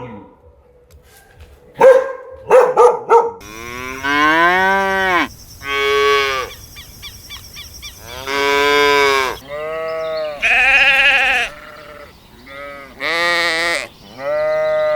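Cattle mooing: several long calls, each rising and falling in pitch. A few short dog barks come about two seconds in, before the mooing starts.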